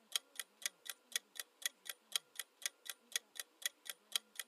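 Countdown timer ticking sound effect, a steady, even tick about four times a second while the quiz puzzle's answer time runs down.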